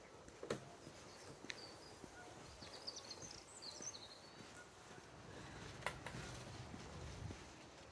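Faint background ambience with a brief run of small songbird chirps about three seconds in, and a few sharp ticks scattered through.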